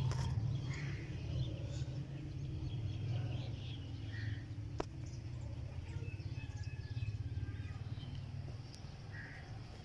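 Scattered bird chirps and short calls over a steady low rumble, with a single click about five seconds in.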